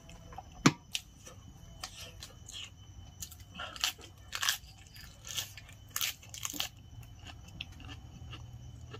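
Close-miked eating of spicy Korean instant ramen: irregular chewing and mouth noises in uneven bursts, with a sharp click under a second in, over a low steady hum.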